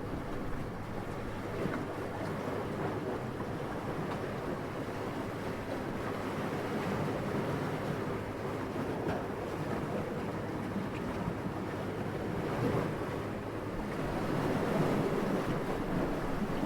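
Steady wind, a low rushing that swells a little near the end.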